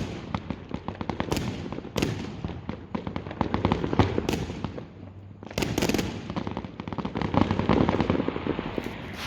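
Fireworks crackling and popping in rapid strings, with a few louder bangs among them; the crackling eases off about five seconds in, then starts up again.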